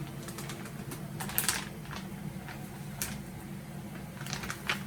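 A few scattered light clicks and taps, the sharpest about one and a half seconds in, over a steady low hum.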